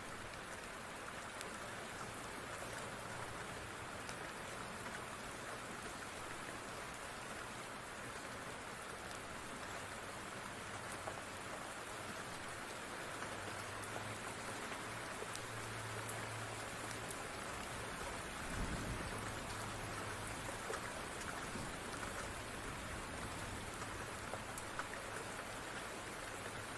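Steady rain falling, with faint scattered crackles of a wood fire. About two-thirds of the way through there is a brief low thump.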